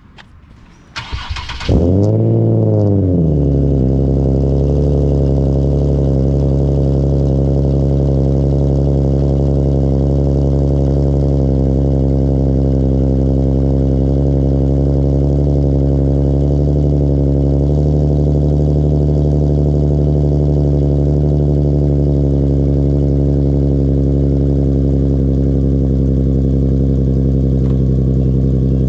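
Nissan VQ37VHR V6 cold start through a custom titanium single-exit straight-pipe exhaust with the stock catalytic converters. The starter cranks briefly about a second in, the engine catches and flares up in revs, then it settles within a couple of seconds into a steady idle.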